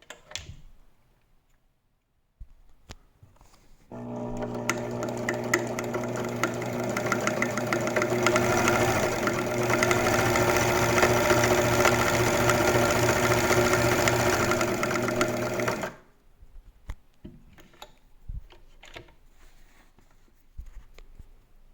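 1976 Elna TSP72C sewing machine running and sewing, starting about four seconds in, picking up speed a few seconds later and stopping near sixteen seconds. A few light clicks come before and after it.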